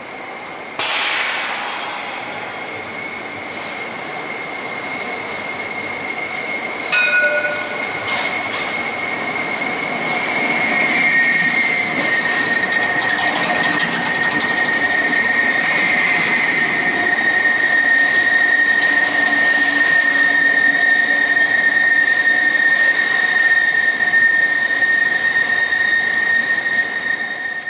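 Tram wheels squealing against the rails: a high, steady squeal that starts sharply about a second in, drops slightly in pitch around the middle and holds, with a second, higher squeal joining near the end, over the rumble of the tram running. A short clunk comes about seven seconds in.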